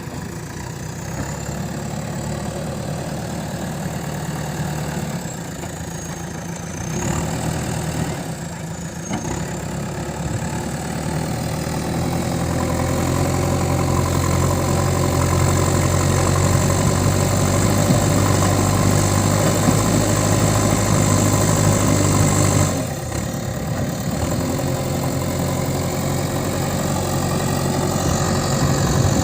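JCB digger's diesel engine running steadily. About halfway through its note grows louder and fuller, then drops back suddenly near the end.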